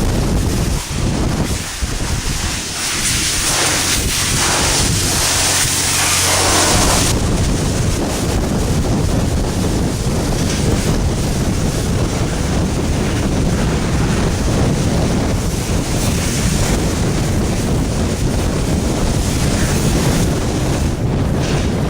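High-pressure water spray hissing steadily as a mini bike is washed down, brighter and harsher for the first several seconds, then a duller rush.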